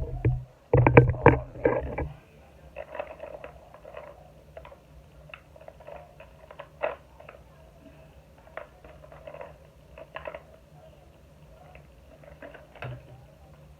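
Hair tools clattering as someone rummages through a caboodle case of combs, brushes and tweezers, hunting for tweezers. A loud clatter in the first two seconds, then scattered lighter clicks and rattles.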